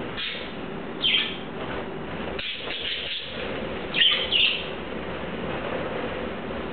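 Budgerigars chirping in short, sharp calls, several in the first four and a half seconds, the loudest a pair of calls about four seconds in, over a steady background hiss.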